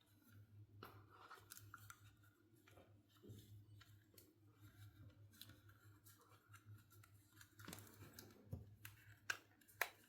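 Faint scattered clicks and light taps of small plastic toy pieces being handled, with two sharper clicks near the end.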